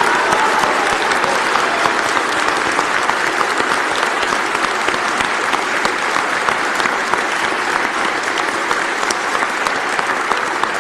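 A large audience applauding steadily in a hall, a dense wash of many hands clapping, with a few single claps standing out near the end.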